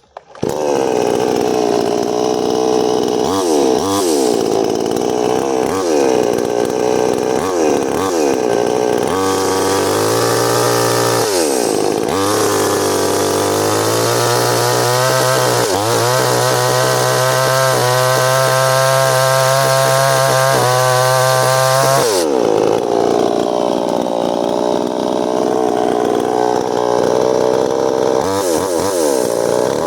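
New West 598 two-stroke petrol chainsaw, about 55 cc, being revved. It gets quick throttle blips at first, then is held at full throttle for several seconds in the middle. It then drops back to a lower speed and is revved up again near the end.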